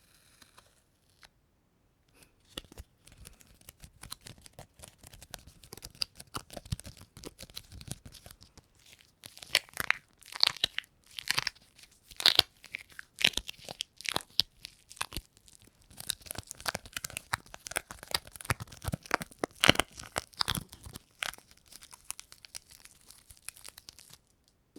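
Sticky, crackly peeling sounds, as of a tacky surface pulled apart again and again. They start about two seconds in as dense irregular crackling, grow loudest around the middle and again later, and stop just before the end.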